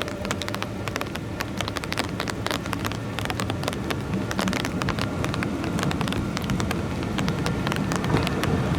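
Trieste-Opicina tram approaching on its rails: an irregular clatter of clicks over a low rumble that grows louder toward the end.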